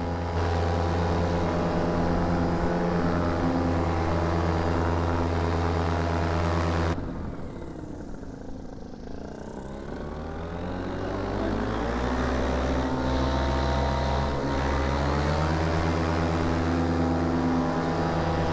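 Paramotor engine and propeller running steadily at power; about seven seconds in it throttles back, its pitch dropping and sweeping, then it powers back up and holds steady again, as in a touch-and-go.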